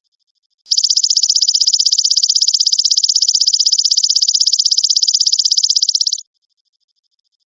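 Belalang emas (golden grasshopper) insect call: one high-pitched, rapidly pulsing trill lasting about five and a half seconds, starting a moment in and stopping sharply near the end, with silence on either side.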